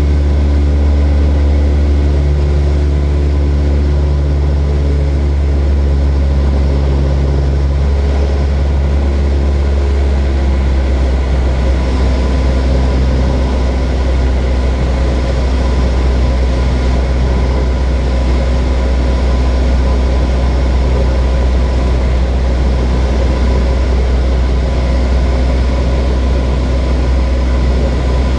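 Light propeller aircraft's engine and propeller droning steadily with a strong low hum. The higher tones shift during the first ten seconds or so, then hold steady.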